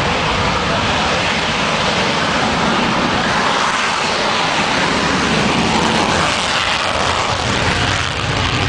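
Sukhoi Su-30MKM fighter jet's twin turbofan engines at takeoff thrust: a loud, steady rushing jet noise.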